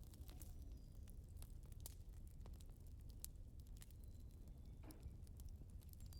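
Faint wood fire crackling: irregular sharp pops and clicks over a low steady rumble.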